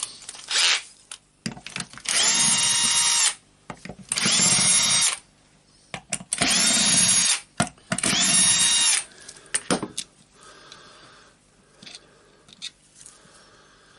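Power screwdriver run in four short bursts of about a second each, every one spinning up in pitch and then running steady, as four screws are backed out of an orbital sander's housing. Quieter clicks and handling of the parts follow near the end.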